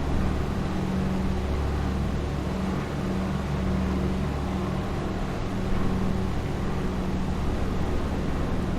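Douglas DC-3's twin radial piston engines and propellers droning steadily, with a low hum and a rough noise over it.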